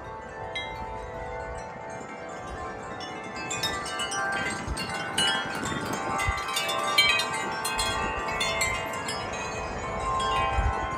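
Several wind chimes ringing in the wind, a cluster of overlapping metal tones. The strikes come thicker and louder through the middle, with a few low thuds underneath.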